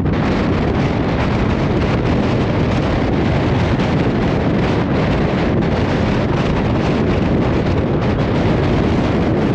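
Strong gusting wind buffeting the microphone: a loud, steady low rumble with no let-up.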